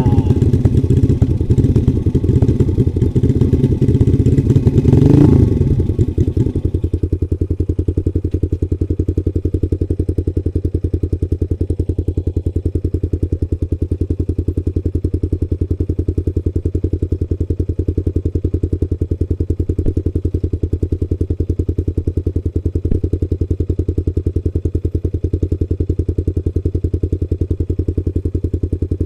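Trail motorcycle engine revving up and dropping back about five seconds in, then idling steadily with an even throb.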